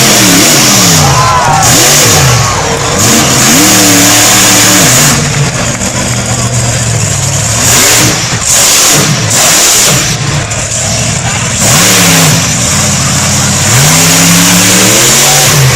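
Monster truck engine revving hard in repeated surges, its pitch climbing and falling several times as the truck is run through wheelies.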